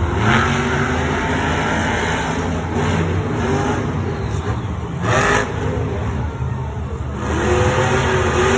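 Monster truck engines revving hard during a race, the pitch climbing and holding, with a brief loud burst of noise about five seconds in.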